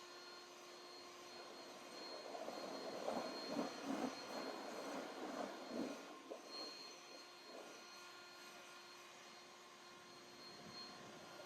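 Leaf blower running, a steady whine under a rush of air that swells louder for a few seconds in the middle as it blows water off the truck's body.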